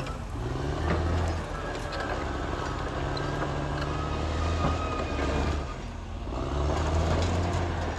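Caterpillar D6R XL bulldozer's diesel engine working under load, the revs climbing about half a second in, dipping briefly around six seconds in and climbing again, with scattered metallic clanks.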